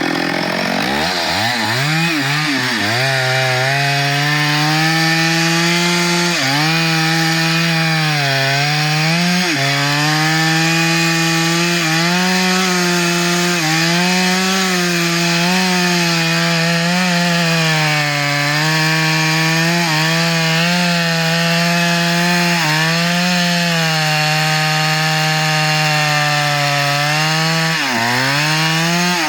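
Chainsaw cutting wood. The engine revs up over the first couple of seconds, then holds a high, steady whine, its pitch dipping briefly several times.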